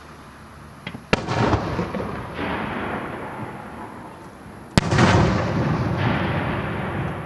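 Aerial firework shells bursting: two sharp bangs about four seconds apart, each followed by a long rumbling, crackling tail.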